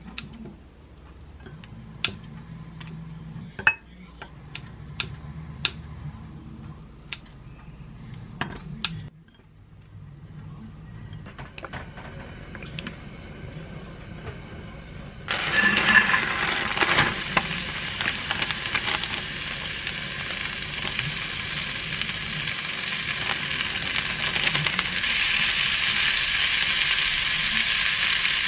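Kitchen scissors snipping pieces of squid into a ceramic bowl: a run of sharp clicks and snips. About fifteen seconds in, a loud sizzle starts suddenly as cauliflower fried rice goes into a hot oiled frying pan, and the frying goes on, louder again near the end.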